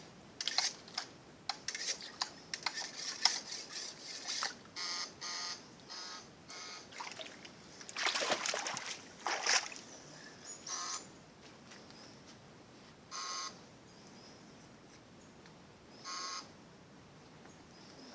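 Water splashing and trickling, with a run of sharp clicks in the first few seconds and a louder splash about eight seconds in. Several short pitched calls sound at intervals.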